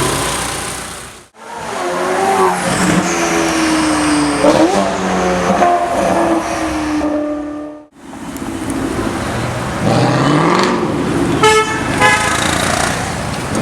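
Street traffic with car horns honking over running engines, in several short clips cut together. Near the end comes a quick run of rapid horn toots.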